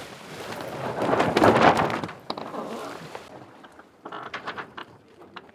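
A racing yacht's sails slatting in near-calm air: a loud rushing, crackling flog that swells and fades over about three seconds, then a few sharp clicks and creaks from the rig. In sailing this is the sign of a boat becalmed, rolling with too little wind to hold the sails full.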